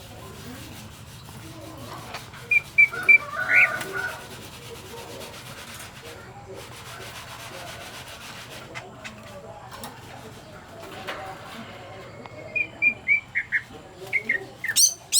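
Green leafbird (cucak ijo) giving short whistled chirps in two quick runs: a few notes followed by a rising note about three seconds in, then a longer run near the end that finishes with a loud upward sweep.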